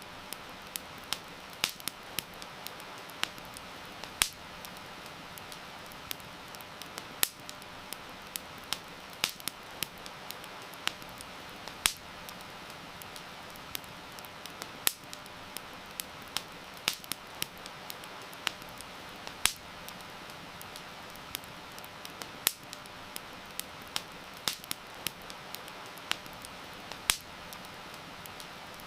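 Wood fire crackling, with frequent irregular sharp pops, over a steady hiss of heavy rain.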